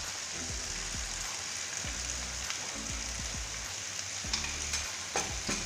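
Chicken pieces frying in a pan with a steady sizzle, with a few light clicks in the second half.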